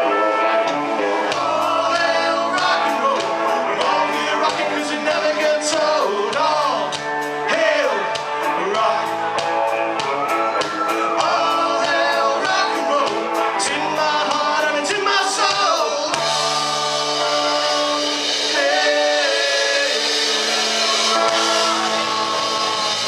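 Live rock band playing the opening of a song, no lyrics yet, over a steady drumbeat. A bending lead melody carries the first part, and about two-thirds of the way in the sound brightens with a wash of cymbals.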